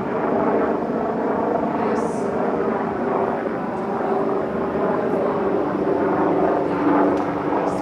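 Helicopter flying overhead, a steady drone of engine and rotor.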